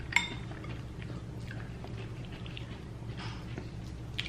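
Eating at a table: a metal utensil clinks once against a plate near the start with a short ring, followed by scattered soft clicks and crunches of salad being chewed, over a steady low hum.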